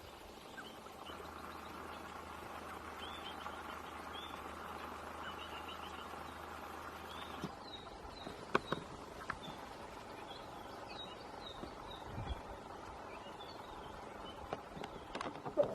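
Outdoor bush ambience: a steady low hiss with short, high bird chirps repeating throughout. The background changes abruptly about halfway through, followed by a few sharp clicks.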